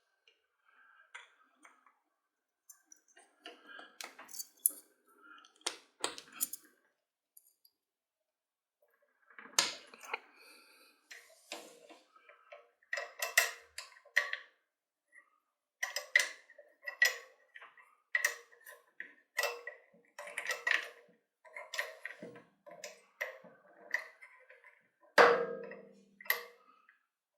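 Small metal and plastic drill parts clicking, tapping and knocking as the hammer drill is assembled by hand, in irregular runs with one louder knock near the end.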